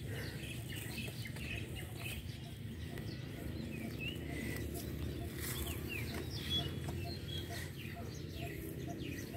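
Small birds chirping and twittering, with a soft call repeated evenly about two or three times a second, over a steady low background noise.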